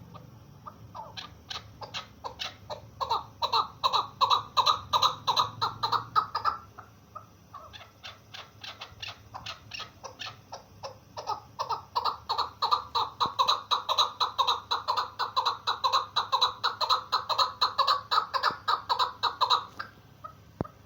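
Female chukar partridge calling: a rapid series of short repeated notes, about four or five a second, in two long runs that build up in loudness, the second run longer and stopping near the end.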